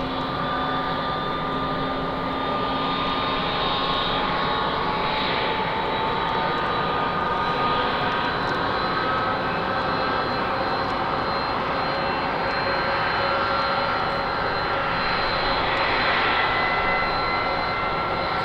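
Boeing 747-400 freighter's four turbofan engines running, a steady jet noise with whining tones that slowly rise in pitch as the engines spool up.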